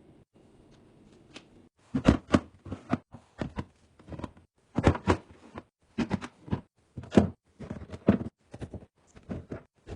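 Irregular knocks and clatters of containers being set down and arranged while restocking a refrigerator, starting about two seconds in.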